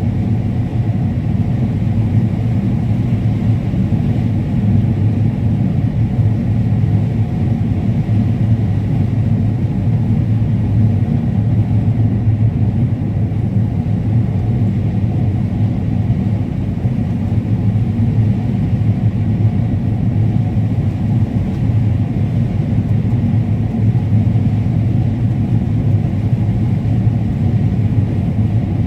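Combine harvester running steadily while cutting corn: an even, unbroken low rumble.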